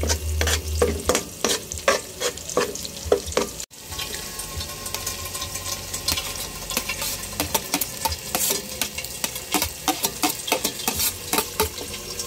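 Chopped onions and garlic sizzling in hot oil in a nonstick wok, with a metal ladle scraping and tapping the pan as it stirs. The sound breaks off for an instant about four seconds in, then diced ham sizzles in the oil while the stirring clicks go on.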